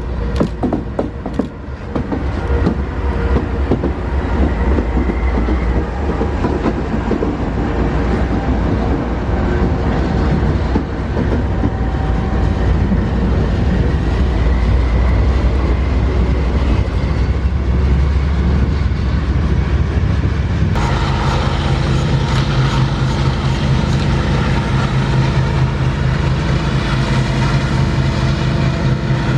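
Double-stack container freight train rolling past, its wagons' wheels clattering and rumbling over the rails. About two-thirds of the way through the sound cuts abruptly to a steady engine hum with a held low tone, typical of a diesel locomotive running.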